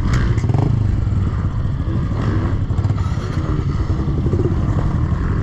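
110cc four-stroke pit bike engine running at low revs, with a few short rises in pitch as the throttle is blipped and some clatter.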